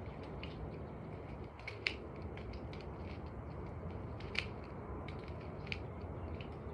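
Holly bush being trimmed by hand: sharp snips of the cutting blades through twigs, three louder ones about two, four and a half and nearly six seconds in, with lighter clicks and crunches of leaves between, over a steady low background rumble.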